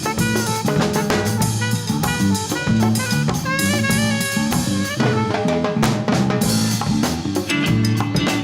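Live band playing Latin fusion: a busy drum-kit groove with rimshots and bass drum under a bass line and a melodic line of short held notes.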